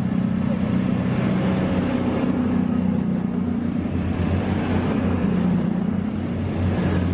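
Diesel engines of a five-car Voyager train running steadily, a loud, even low drone.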